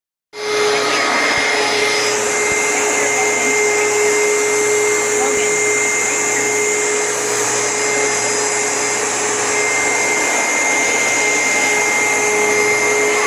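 Vacuum cleaner running steadily: a constant motor whine over a rushing hiss, and the hiss turns brighter about two seconds in.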